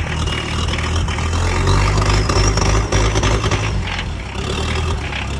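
A vehicle engine running steadily at low speed, with a faint rising whine partway through.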